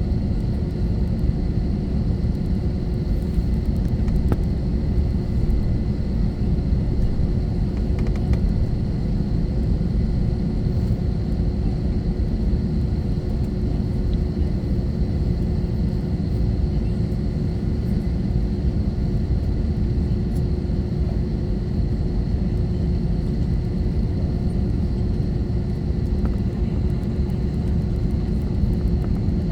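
Cabin noise of an Airbus A321-231 airliner with IAE V2500 engines: a steady, even rumble of engines and airflow with a faint constant hum on top, not rising or falling.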